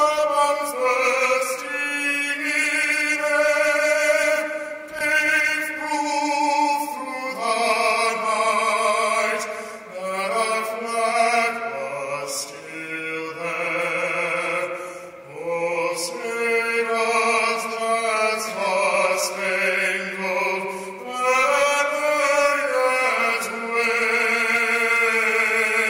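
A solo singer singing slow, long-held notes with no instrumental backing, carried over the arena's sound system.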